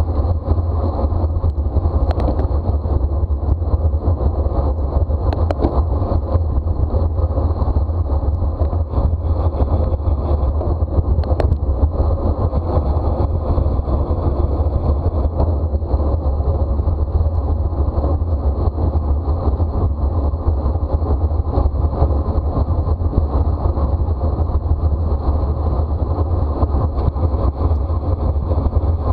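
Steady wind rumble buffeting the microphone of a road bicycle ridden at race speed, heaviest in the low end and unbroken throughout.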